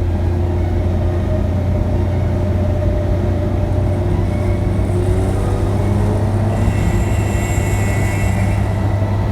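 A car being driven: a steady low engine drone with road noise, holding an even pace. A brighter hiss joins in for a couple of seconds in the second half.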